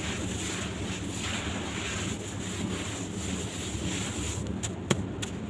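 Dry sand cement crumbling in water: a steady hiss over a low rumble, with a few sharp clicks near the end, the loudest about five seconds in.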